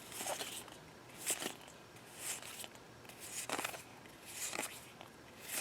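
Yu-Gi-Oh trading cards from a freshly opened booster pack being slid off the stack one by one, a faint soft swish about once a second.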